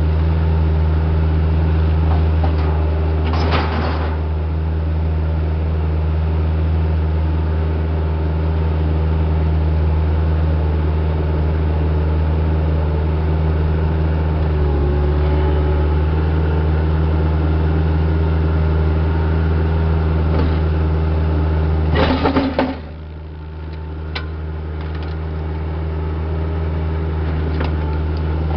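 Heavy-equipment diesel engine running steadily under throttle, with a brief clatter about three seconds in and another about 22 seconds in. After the second clatter the engine drops off, then gradually builds back up.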